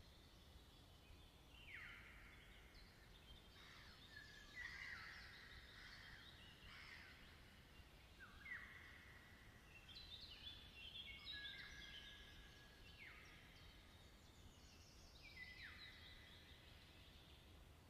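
Faint birdsong: several songbirds singing short, overlapping phrases every second or two, over a low background rumble.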